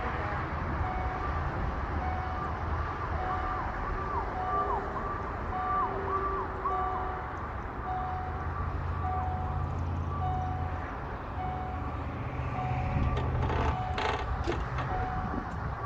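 Emergency vehicle siren cycling quickly up and down in pitch, heard over the low steady rumble of a vehicle, with a few sharp knocks near the end.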